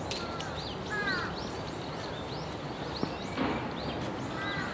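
Small birds chirping over and over in short high calls, over a steady haze of outdoor background noise, with a brief click about three seconds in.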